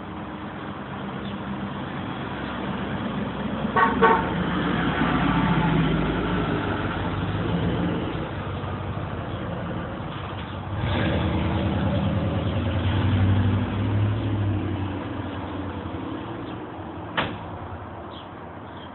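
Motor vehicles going by, the hum swelling and fading twice, with a short horn-like toot about four seconds in and a sharp tick near the end.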